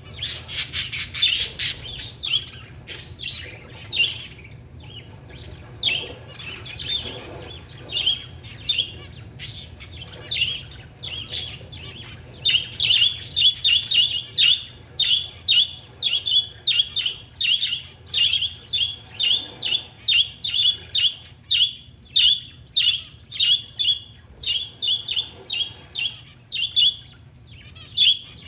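Pet parakeets and zebra finches calling: a burst of dense chattering at the start, then short, sharp chirps that from about halfway on repeat steadily, about twice a second.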